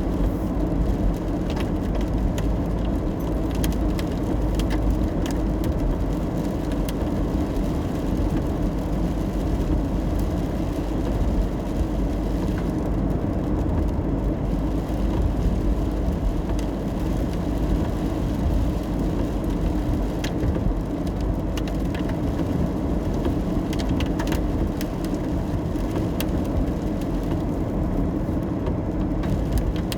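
Car driving in the rain: a steady low road-and-engine rumble with scattered, irregular taps of raindrops.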